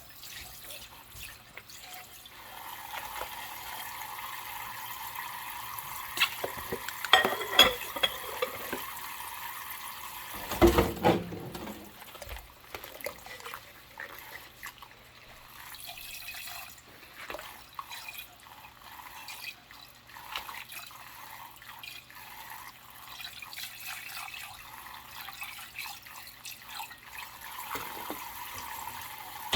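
Washing dishes at a kitchen sink: tap water runs into the sink for several seconds while dishes clink, then a heavy clunk of a dish against the sink about ten seconds in. After that come small clicks, drips and handling noises.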